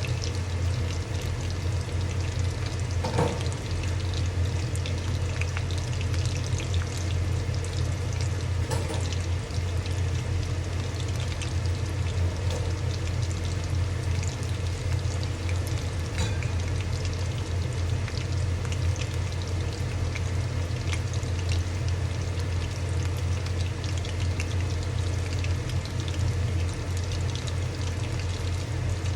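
Fish pakoras frying in hot oil: a steady sizzle full of fine crackles, over a constant low hum.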